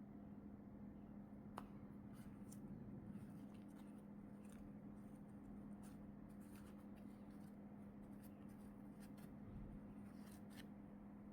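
Faint rustling and crinkling of plastic packaging being handled, with scattered small clicks, the sharpest about a second and a half in, over a steady low hum.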